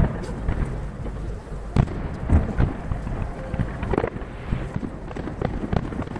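Aerial firework shells bursting in quick succession, heard from a distance: a dense run of booms and sharp cracks over a continuous low rumble, with the strongest bangs about two seconds in.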